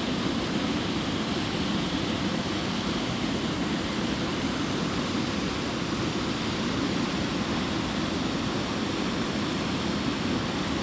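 Waterfall rushing steadily, a continuous wash of falling water with no breaks.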